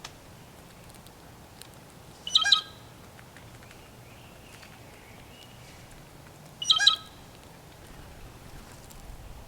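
A wild bird giving two short calls about four seconds apart, each lasting about a third of a second.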